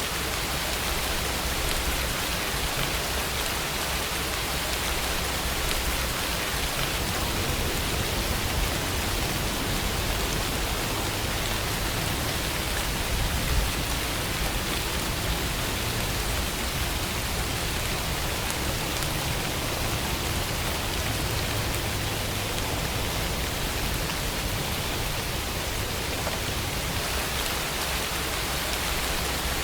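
Steady rainfall: an even, continuous hiss of rain falling on a surface.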